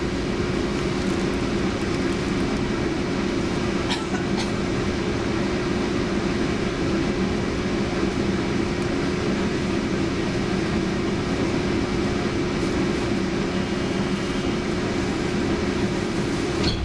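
Steady running noise heard from inside a Centram low-floor tram, with a constant hum from the drive. A couple of clicks come about four seconds in, and another near the end.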